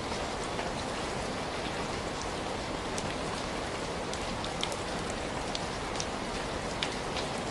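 Steady rain falling, an even hiss with scattered sharp ticks and pops through it.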